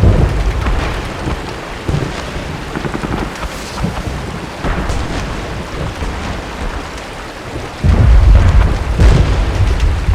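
Steady rain with deep booming rumbles: a heavy one rolling at the start, lighter thuds about two and five seconds in, and another heavy rumble beginning about eight seconds in and rolling on.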